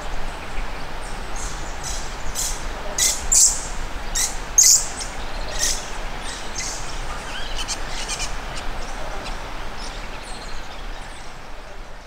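Birds chirping and calling in short, high-pitched notes, loudest and most frequent around three to five seconds in, over a steady background hiss.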